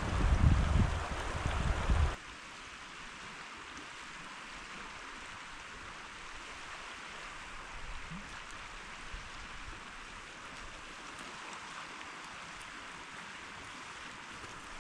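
Steady rushing hiss of flowing river water. For about the first two seconds a louder low rumble lies over it, then cuts off abruptly.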